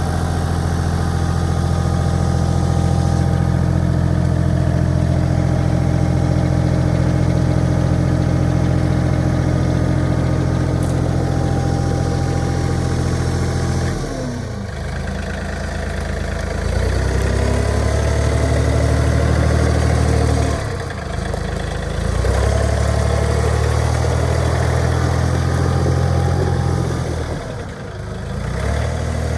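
The three-cylinder diesel engine of a John Deere 3033R compact utility tractor, running steadily. About halfway through its speed dips sharply and picks back up, and this happens twice more, the last time near the end.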